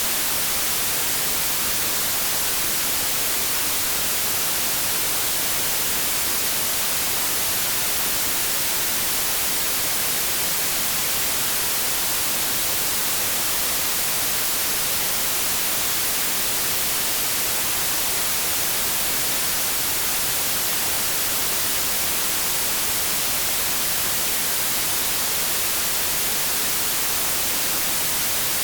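Steady white noise: an even, unchanging hiss with no rhythm or tones, brightest in the treble.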